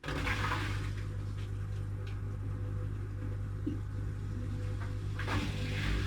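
Washing machine drum motor starting abruptly and turning the drum with a steady hum. Wet laundry sloshes twice, just after the start and again about five seconds in, typical of the wash tumble.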